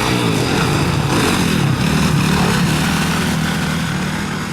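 Motocross motorcycle engines revving, their pitch rising and falling with the throttle.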